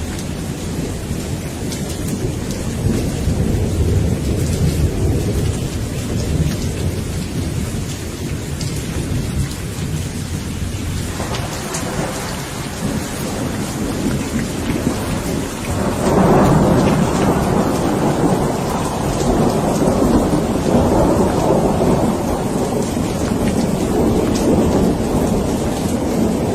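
Steady rain with thunder rumbling throughout; a louder roll of thunder swells up about two-thirds of the way through and keeps rumbling.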